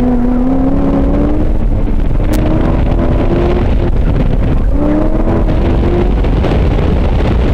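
Car engine accelerating hard: its pitch climbs for a few seconds, drops away, then climbs again about five seconds in, over heavy wind and road rumble on the microphone.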